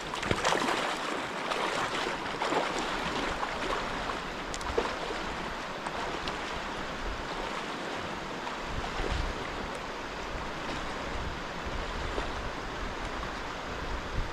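Rushing water of a mountain creek with splashes as someone wades across it. The splashing is heaviest in the first few seconds.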